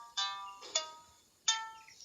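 Zither strings plucked one at a time: three single notes at different pitches, each ringing and dying away, roughly half a second apart, the second with a soft knock.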